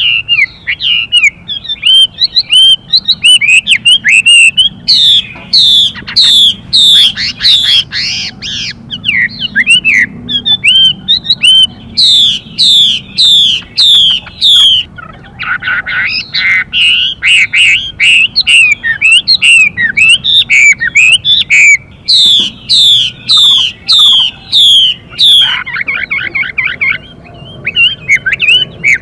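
Chinese hwamei singing loudly: fast runs of repeated, sharply falling whistled notes, about three or four a second, switching to a new phrase every few seconds, with a few rougher, buzzier stretches between them.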